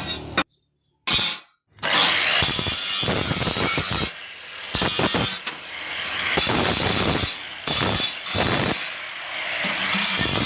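Loud rasping metalworking noise on iron pipe, in stretches of a second or two with short dips between them. It cuts out completely for about half a second near the start.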